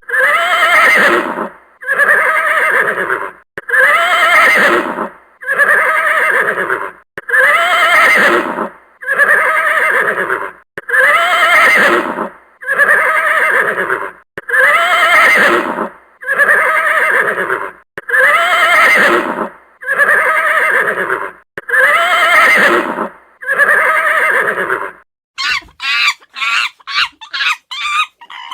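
A horse whinnying, the same whinny repeated about a dozen times at roughly two-second intervals. Near the end it gives way to a quick run of short clucking calls.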